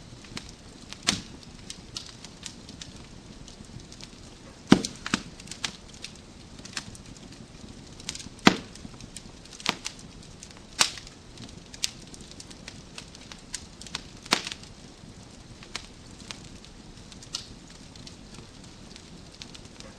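Wood fire crackling in a fireplace: a steady low hiss with irregular sharp pops and snaps from the burning logs, a few of them much louder, about five seconds in and again at eight and a half seconds.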